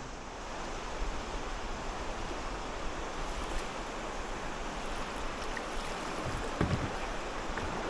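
River water rushing steadily around a kayak, with a brief soft low thump about six and a half seconds in.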